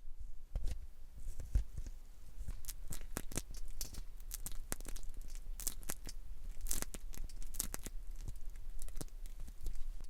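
Close-miked hair and scalp being handled slowly, a continuous dense crackling made of many small crisp clicks and rustles.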